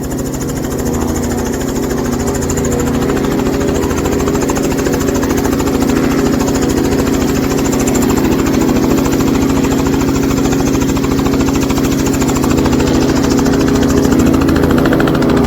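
Tour helicopter running up and lifting off, its engine and rotor blades making a steady, rapidly pulsing drone that grows slowly louder.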